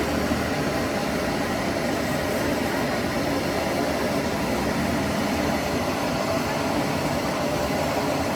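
A steady machine drone, an even mechanical noise that holds the same level throughout.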